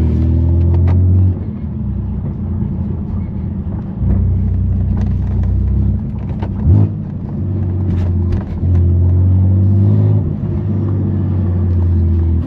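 A BMW F80 M3 Competition's S55 twin-turbo straight-six running through a straight-pipe exhaust at low city speed. Its low drone swells and drops every few seconds as the throttle is pressed and let off. There is one short, sharp thump just past halfway.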